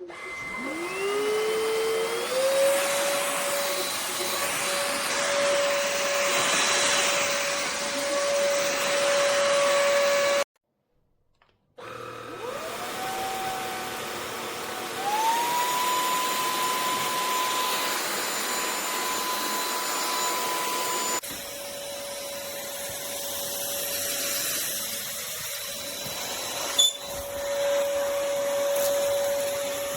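Vexilar V9PRO cordless stick vacuum's motor spinning up with a rising whine and then running steadily. It cuts off about ten seconds in, starts again and climbs to a higher, steady pitch, then runs at the lower pitch again.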